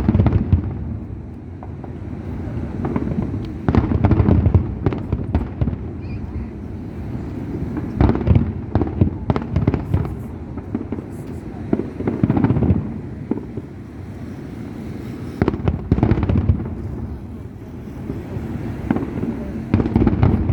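Aerial fireworks going off in volleys, each a cluster of sharp bursts and crackle, with a new volley about every four seconds.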